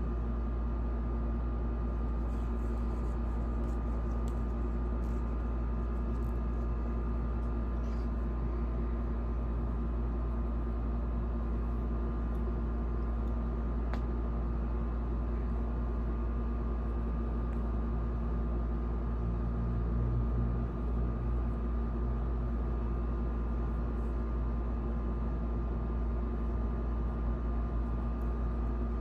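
Steady low electrical or appliance hum with a constant hiss and a few faint held tones, broken only by a few faint clicks.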